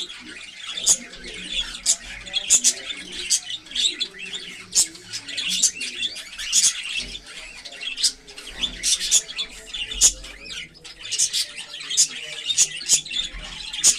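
Pet cockatiels and budgerigars chirping and squawking in a cage: a busy, unbroken chatter of short, sharp calls, many of them at a time.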